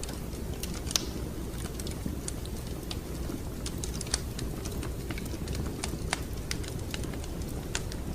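Fire crackling in a fireplace: irregular sharp pops and snaps over a steady low rumble, with a louder pop about a second in and another about four seconds in.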